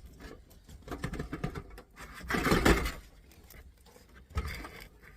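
Handling noise from the steel top cover of a CD player being worked loose: scattered clicks and knocks, with a louder scraping rush about halfway through and a sharp knock near the end.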